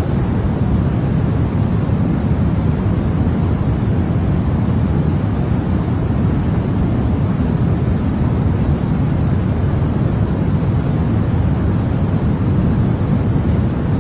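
Continuous white noise for baby sleep: an even, unchanging rush, heavier in the low end, with no breaks or changes.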